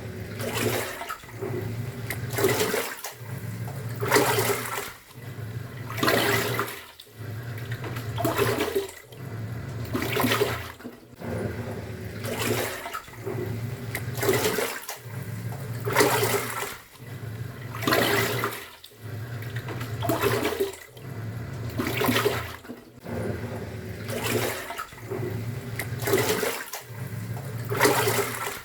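Top-loading pulsator washing machine agitating a load in water. The motor hums for about a second and a half, pauses briefly, and starts again roughly every two seconds as the pulsator reverses, with water sloshing and splashing at each turn.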